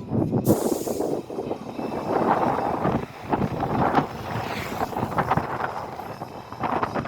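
Strong wind buffeting the microphone in uneven gusts, a rumbling noise that swells and drops from moment to moment.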